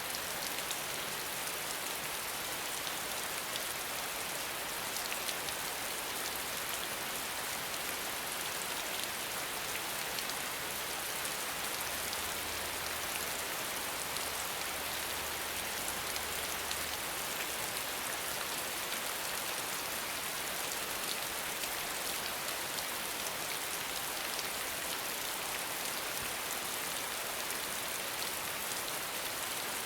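Steady rain falling: a dense, even patter of drops that does not let up.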